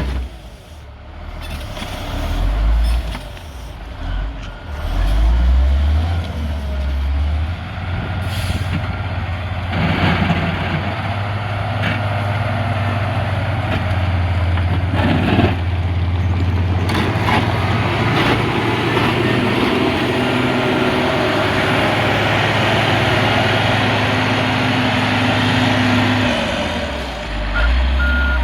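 Diesel engine of a CAT 140G motor grader running steadily as it works. A reversing beeper starts near the end.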